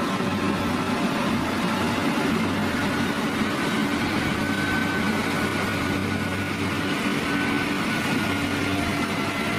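Engine of heavy construction machinery running steadily at a constant speed, a low drone with a faint higher whine drifting slightly in pitch.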